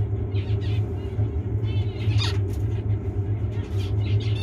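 Zebra finches giving several short, nasal chirping calls, one with a sharp downward glide about two seconds in, over a steady low hum.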